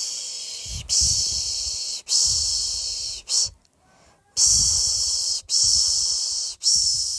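A person shushing a baby to sleep, a repeated 'shh' about a second long each, with a pause of about a second midway.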